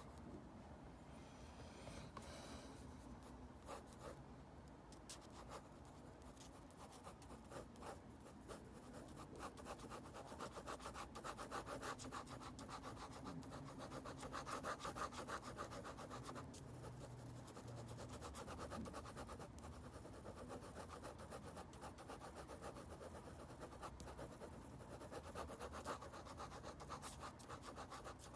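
Drawing strokes on paper: a pen or pencil tip scratching in quick, repeated back-and-forth hatching strokes, busiest through the middle.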